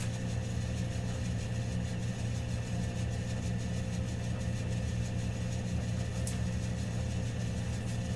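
Steady low mechanical hum of a running machine, holding several unchanging tones, with a faint click about six seconds in.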